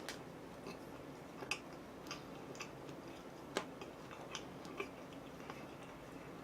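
Faint, irregular small clicks and ticks, about a dozen spread unevenly through the stretch, over a low steady background.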